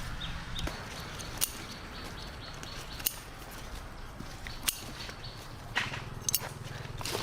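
Outdoor rural ambience: a few short bird chirps early on and scattered sharp clicks or snaps, about six spread across the few seconds, with a faint low hum near the end.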